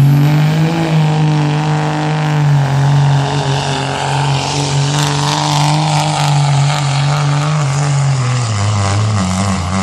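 Gas pickup truck engine at wide-open throttle, pulling a weight sled in a truck pull. The note holds at steady high revs, then drops in pitch about eight seconds in as the truck bogs down.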